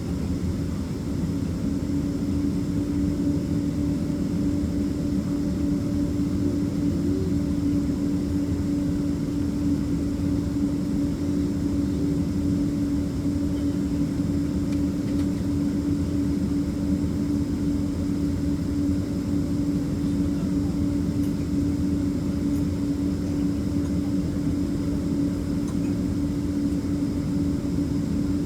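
Boeing 767 cabin noise with the engines running: a steady low rumble with a constant hum, unchanging throughout.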